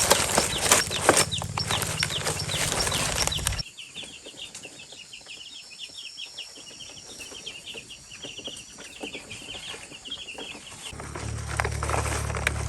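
Chickens calling, with rapid high chirping through the middle stretch. A louder low hum and clatter fill the first few seconds, stop abruptly, and the hum comes back near the end.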